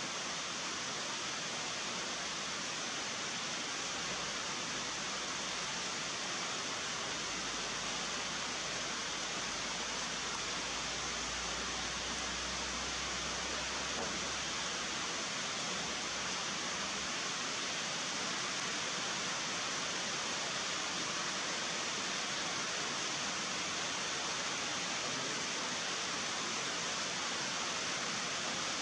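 Heavy rain falling, a steady even hiss that does not let up, with a faint low rumble in the first half.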